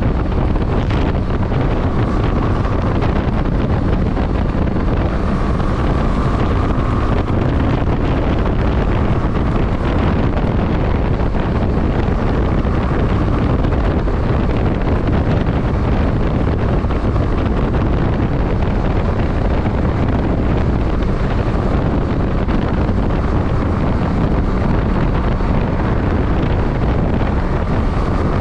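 Wind rushing over a helmet-mounted microphone on a moving motorcycle, steady and loud, with the bike's running noise beneath it.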